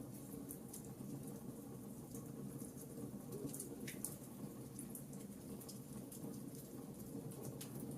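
Fireplace fire crackling: frequent small, irregular pops and snaps over a soft, steady low rumble of the flames.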